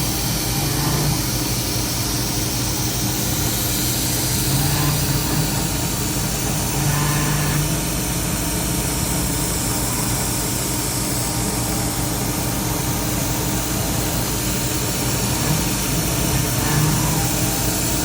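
CNC-converted Rong Fu round-column mill taking deep cuts in delrin: the spindle runs steadily under an air blast that hisses, and a low tone swells briefly several times as the axes move.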